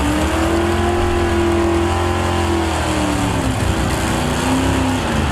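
Small-block super stock pulling truck's engine running hard under load, revs climbing and holding high, dropping about three seconds in, then climbing and falling off again near the end.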